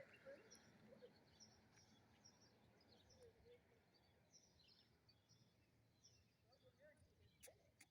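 Near silence with faint, scattered chirps of small birds.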